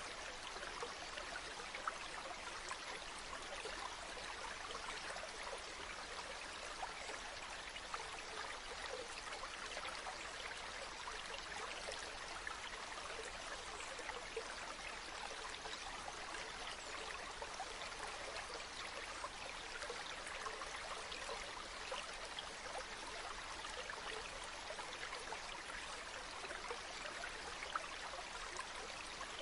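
A river flowing, a steady rushing and babbling of water with small splashes throughout.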